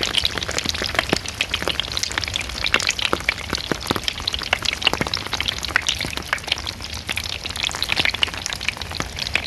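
Rain-soaked cheap foam surfboards giving off a dense, irregular crackling and popping, like food frying in a skillet, over the patter of rain. The crackle is not simply the rain hitting the boards.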